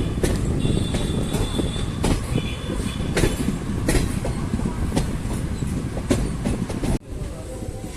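Passenger train running on the rails: a steady low rumble with repeated sharp wheel clicks over rail joints and a faint, brief wheel squeal in the first few seconds. The sound drops abruptly about seven seconds in.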